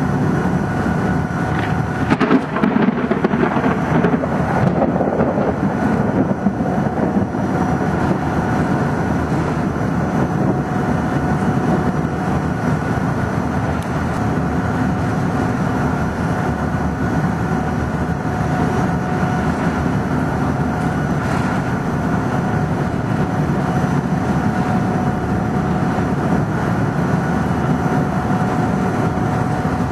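Thunder rumbling over a steady wash of heavy rain and a constant background hum, with a louder, sharper crack about two to three seconds in.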